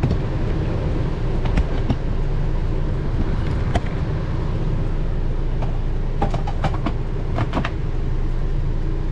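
Steady low machine hum from a running generator and air conditioner. Over it come a few light clicks and knocks, mostly in the second half, as the air fryer basket is handled.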